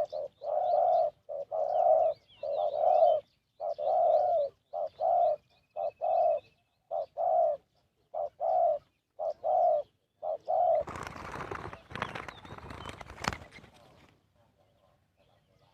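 Spotted dove cooing over and over, a long run of short low coos with brief gaps. Then, about eleven seconds in, a few seconds of rustling noise.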